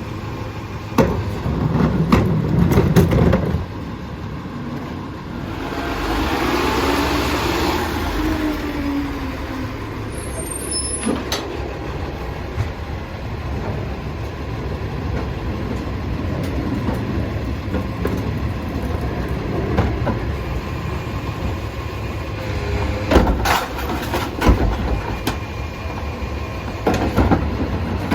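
Heil rear-loader garbage truck running with a steady low engine rumble. There is clattering and banging about one to three seconds in and again near the end, and a rushing hiss from about six to nine seconds in.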